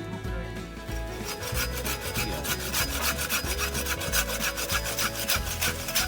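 Hand saw cutting wood in quick, even back-and-forth strokes, about four or five a second, starting about a second in.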